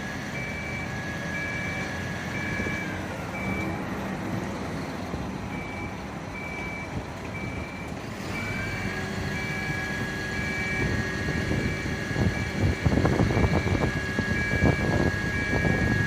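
Fire truck's warning beeper sounding at a steady rate, a little under once a second, with a short gap near the middle, over a running engine and a steady high whine that fades away about three seconds in and comes back about eight seconds in. From about eleven seconds in, irregular clattering knocks join in and are the loudest sound.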